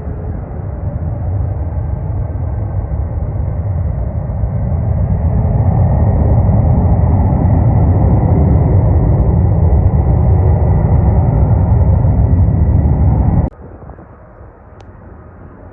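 Jet airliner landing, its engine rumble building as it comes closer and holding loud and steady, then cutting off abruptly near the end.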